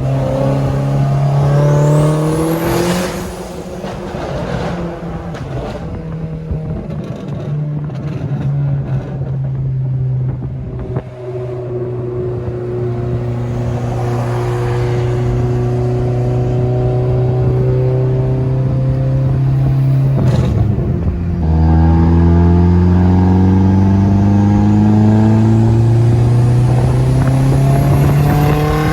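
Turbocharged Audi B5 engine under wide-open throttle for a logged third-gear pull, heard from inside the car: the engine note climbs with a thin rising turbo whistle, eases off about 3 seconds in, runs steadier, then after a brief break around 21 seconds climbs hard again with the whistle rising near the end.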